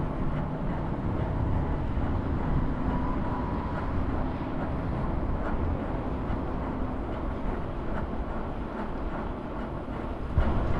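Steady road and wind rumble of a scooter riding through city streets, with a sharp thump near the end.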